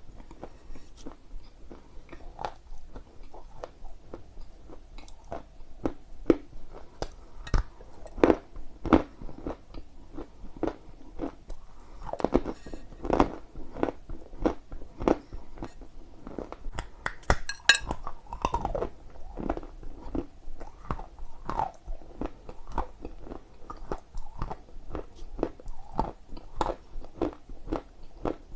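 Close-miked biting and chewing of dry clay: a steady run of small crunches and crackles, with a spell of louder crunching about halfway through.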